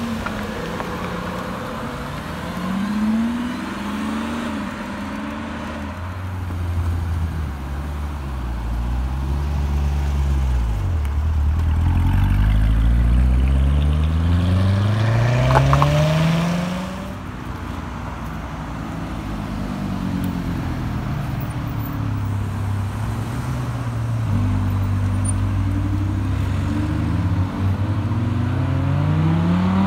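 Supercar engines revving and pulling away one after another, their pitch rising and falling through the gears: a Lamborghini Revuelto's V12 at first, then a Chevrolet Corvette C7's V8, loudest and deepest in the middle and cutting off sharply. Near the end an Audi R8's V10 starts to rise in pitch as it accelerates.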